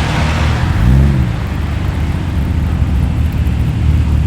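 Ford XR6's six-cylinder engine running low as the car rolls past, with a brief rev that rises and falls about a second in.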